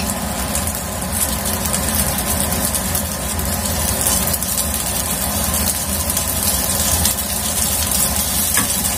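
Stir-fried kway teow noodles sizzling in an oiled frying pan as they are stirred with a wooden spatula, a continuous fine crackle over a steady low hum.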